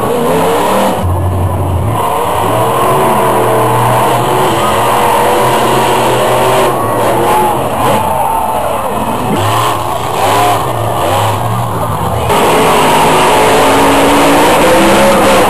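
Monster truck engines revving loudly, their pitch climbing and falling again and again.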